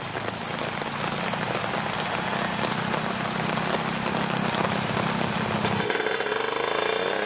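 Heavy rain falling, with a drag motorcycle's engine running low underneath; near the end an engine revs up, rising in pitch.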